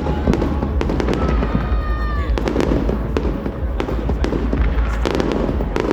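Fireworks going off: repeated sharp bangs and crackles over a dense low rumble, with a brief high-pitched whistle-like tone about a second in.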